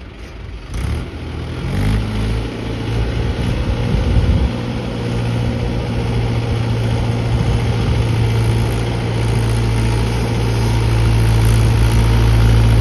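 Mahindra tractor's diesel engine pulling under load. About two seconds in, the engine note rises and settles into a steady, strong hum that grows gradually louder, as it is taken up into third gear.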